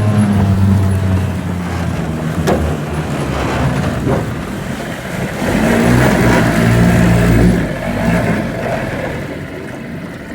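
Small 5 hp outboard motor running hard with a surface-piercing bronze racing propeller, the boat up on the plane, with a sharp click about two and a half seconds in. It grows quieter near the end.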